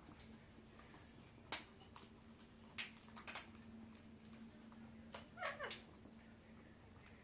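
Parrot making a few faint short chirps and clicks, then one call that falls in pitch about five and a half seconds in.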